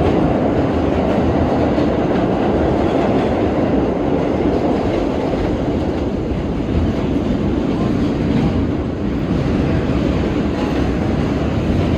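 R32 subway train running on the rails, heard from inside the car as a steady noise of wheels and car body.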